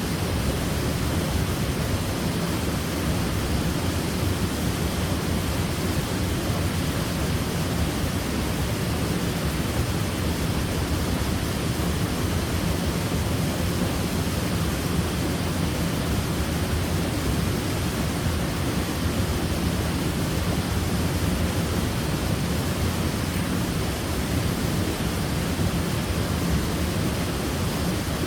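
Waterfall: a steady, unbroken rush of falling water, heaviest in the low rumble, with no separate splashes standing out.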